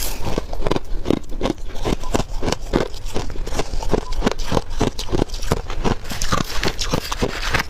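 Freezer frost being bitten and chewed close to the microphone: a steady run of crisp crunches, about four or five a second.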